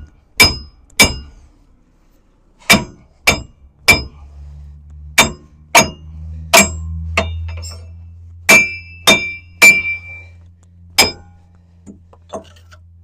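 Hammer blows ringing on steel, about a dozen sharp strikes in clusters of two or three, knocking a seized front hub and wheel bearing assembly out of a Ram 2500's steering knuckle. A low steady hum runs underneath from about four seconds in.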